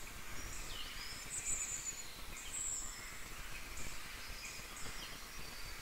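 Faint birds chirping and whistling in short repeated calls over a steady background hiss.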